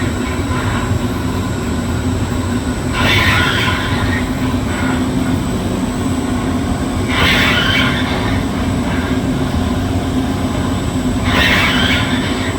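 A machine tool slowly cutting hardened steel flats at low spindle speed and very slow feed: a steady low motor and drive hum, with a harsh rasping cut that comes back about every four seconds, three times.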